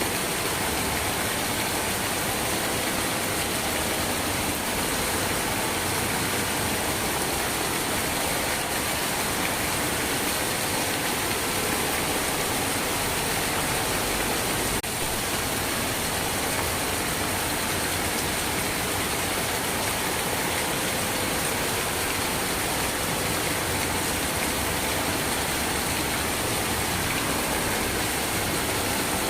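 Steady rain falling, an even, unchanging hiss with no thunder and no drops standing out. There is one faint tick about halfway through.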